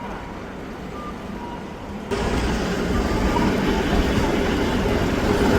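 Hakodate City Transportation 8000-series streetcar running, a steady low rumble of motors and wheels on rail heard from the driver's cab. It steps abruptly louder about two seconds in.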